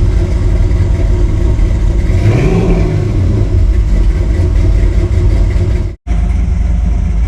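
Engine fast-idling at about 1200 rpm on a cold start, coolant still cold. A brief rise and fall in pitch about two and a half seconds in, and the sound drops out for an instant about six seconds in.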